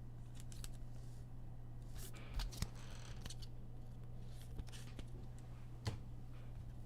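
Sports trading cards being handled: faint rustles and a few light clicks as cards are slid and flipped, over a steady low electrical hum.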